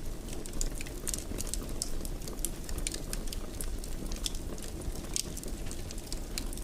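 Wood fire burning in a fireplace: a steady low rumble of flames with many small irregular crackles and pops.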